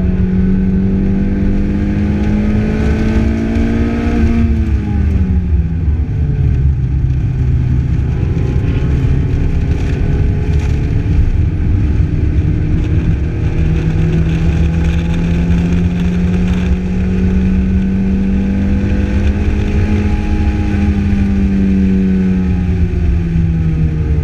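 Lotus Elise's four-cylinder engine under hard acceleration on track. Its pitch climbs for the first four seconds, drops steeply, builds again through the middle and falls once more near the end, with steady wind and road rush in the open cockpit.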